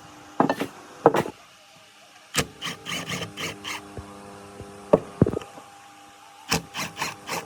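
Hand-tool work in a workshop: clusters of short scrapes and knocks, one a quick run of about six strokes, over a steady background hum.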